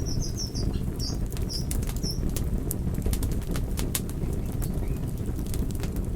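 Wood fire crackling and popping over a steady low rumble of burning. In the first two seconds, a quick run of short, high-pitched squeaks.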